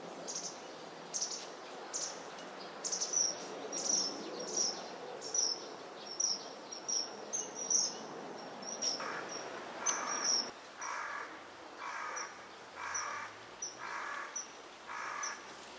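Common kingfisher calling: short, high-pitched notes repeated every half second or so. From about the middle on, a lower, harsher bird call joins, repeated about once a second.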